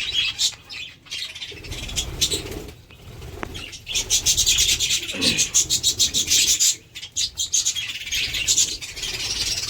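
Domestic pigeons flapping and fluttering their wings, busiest in the middle stretch, with some cooing.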